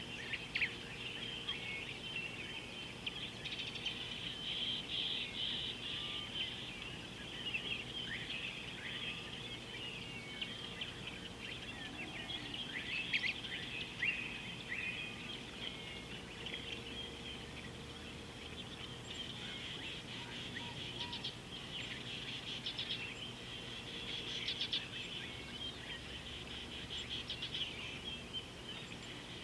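A chorus of wild birds chirping, with many short high calls overlapping one another.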